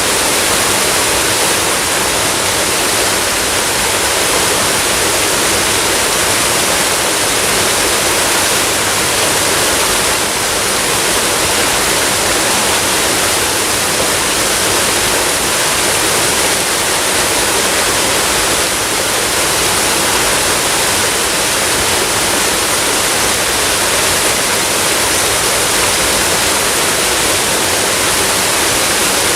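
Waterfall: a steady, even rush of falling water that neither builds nor fades.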